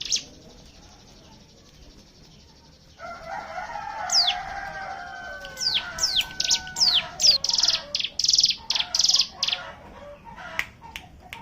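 Ciblek gunung (a small prinia) song from several birds together, used as a bait recording. After a faint opening stretch it comes in at about three seconds with sharp downward-sweeping chirps, then a run of rapid buzzy trills, the 'ngebren' burst song, before thinning out near the end.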